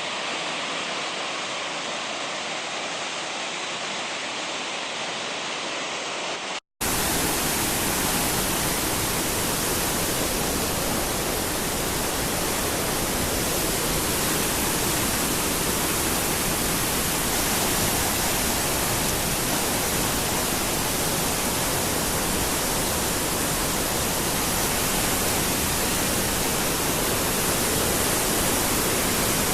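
Steady rushing water of a mountain stream. A brief dropout about seven seconds in, after which the rush is louder and deeper.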